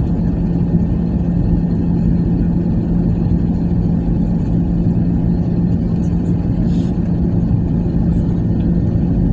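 Steady cabin noise of an Airbus A380 in flight: a constant low rumble of engines and airflow with a steady hum running through it.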